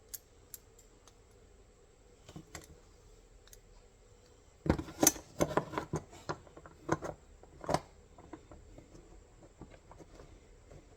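Steel parts of an MB 550 trap clicking and clinking as the springs and levers are worked into the frame. A few light clicks come first, then a run of sharper metal clacks from about five to eight seconds in.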